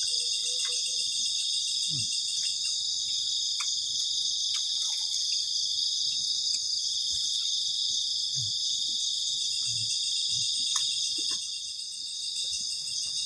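Dense chorus of crickets, a steady high-pitched trilling that eases briefly near the end, with a few faint crackles from the campfire.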